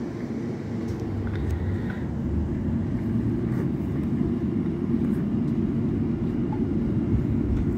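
Cabin noise of a London Overground electric train pulling out of a station: a steady low rumble from the running gear and wheels on the rails that grows louder as the train picks up speed, with a few faint clicks.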